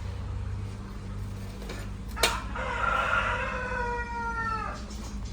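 A rooster crowing once, one long drawn-out call that drops in pitch at its end, over a steady low hum. A sharp click comes just before the crow.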